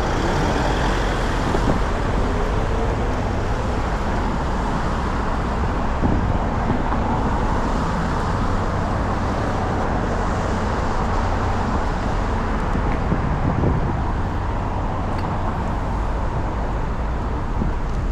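Steady road traffic noise of passing cars.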